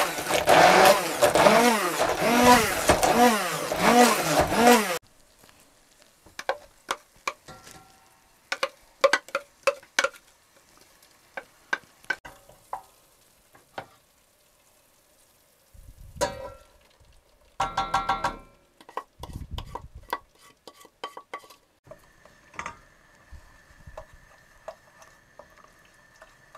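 Background music for about the first five seconds, cut off suddenly. Then quiet cooking work: scattered clicks and knocks of utensils against pans and dishes, with a faint steady tone near the end.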